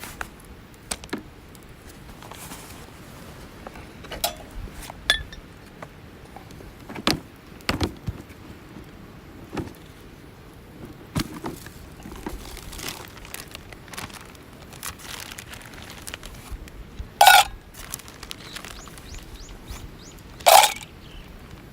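Dry wood being handled and broken at a camp: scattered knocks and clicks, then two loud cracks about three seconds apart near the end as sticks are snapped.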